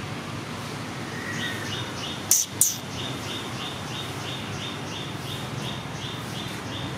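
A small bird chirping over and over, short high chirps at about three a second, with two loud, very sharp high chirps close together near the middle, over steady background noise.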